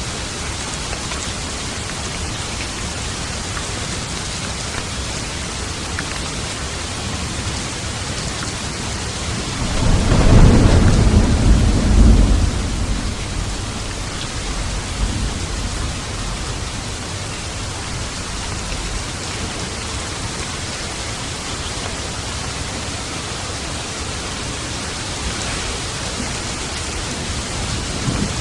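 Steady rain falling through a thunderstorm, with a long rolling rumble of thunder about ten seconds in that lasts a few seconds, and another rumble of thunder beginning near the end.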